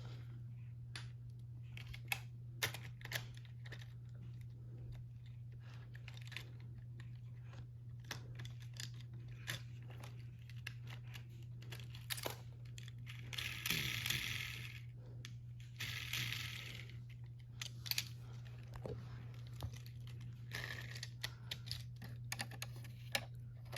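Faint scattered clicks and taps with a few short rustles, over a steady low hum.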